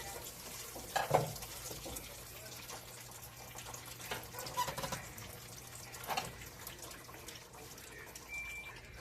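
Liquid trickling steadily, with a few scattered clicks and knocks.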